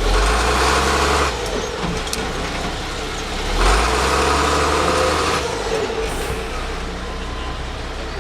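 Tow truck engine running, pushed up in speed twice: for about a second at the start and for about two seconds from near the middle, with a rushing sound over the engine each time, before settling back to a steady run.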